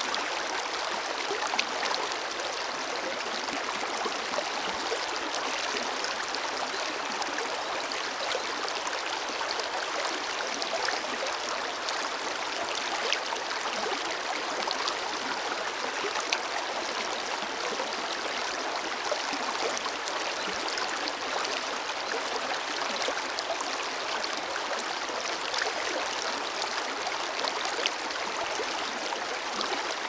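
Forest river flowing steadily: an even rush of running water with many small splashes and gurgles scattered through it.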